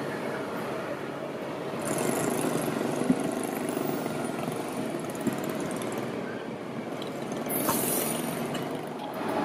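KTX-Sancheon high-speed train rolling slowly past on curved track, its cars and bogies making a steady running noise. Short high-pitched wheel squeals come about two seconds in and again near the end, and there are a couple of sharp clicks from the wheels.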